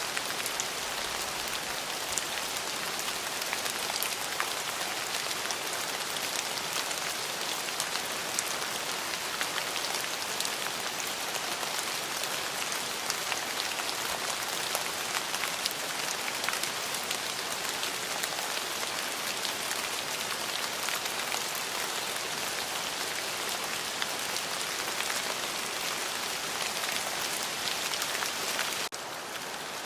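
Steady rain falling, a continuous hiss dotted with many sharp individual drop hits, with no thunder. It turns a little quieter near the end.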